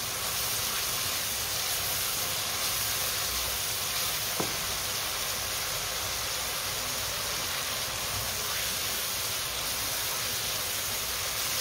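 Diced chicken and spices sizzling in a non-stick wok as they are stirred with a silicone spatula: a steady frying hiss, with one faint knock about four seconds in.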